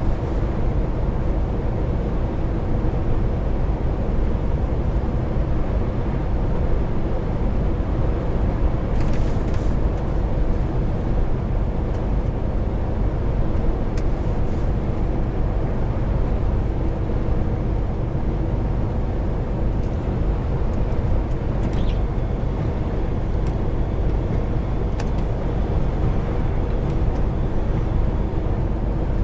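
Heavy truck's diesel engine running at a steady drone under way, with road and tyre noise, and a few faint clicks.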